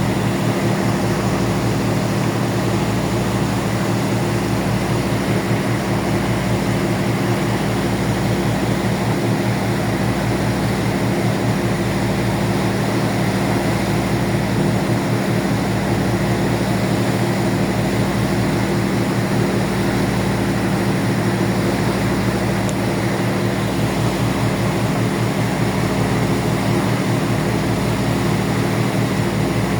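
Ferry's engines running steadily, a constant low drone with a slow pulsing beat.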